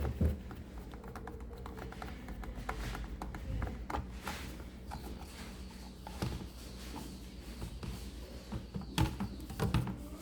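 Scattered clicks and light knocks of a refrigerator fan motor and its fittings being handled and worked on during its replacement, over a steady low hum.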